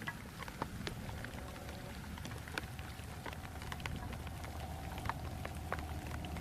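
Heavy rain falling, with many sharp individual drops striking close by over a steady wash of rain noise.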